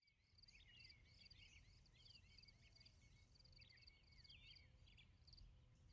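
Faint outdoor nature ambience: birds chirping in short curved calls and insects trilling in evenly pulsed bursts, over a low rumble.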